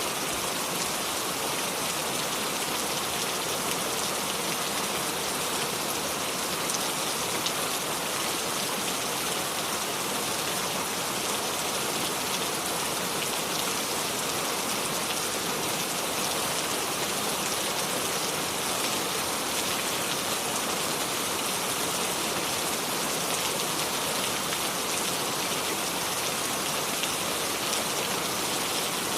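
Steady rain falling, a dense even patter of drops with no thunder.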